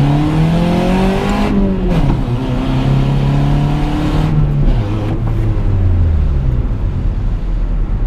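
Car engine under acceleration: its pitch rises for about a second and a half, drops, holds steady, then falls away about five seconds in as the car slows.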